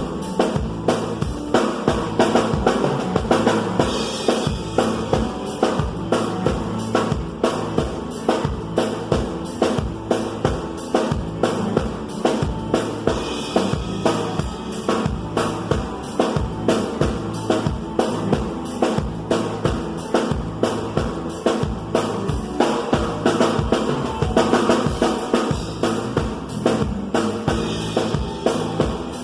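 Live band music led by a drum kit keeping a steady beat, the bass drum and snare prominent, about two to three hits a second.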